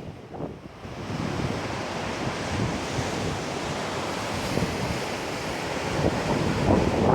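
Typhoon-driven surf breaking on a beach as a steady wash of noise, with wind on the microphone. It drops back briefly at the start, then swells again near the end.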